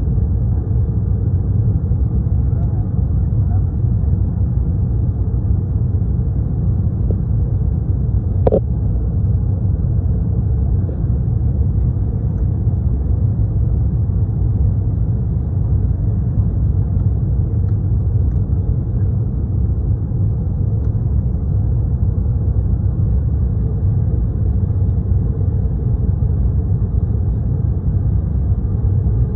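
Steady low rumble of an airliner's engines and airflow heard inside the passenger cabin, with one short brief sound about eight seconds in.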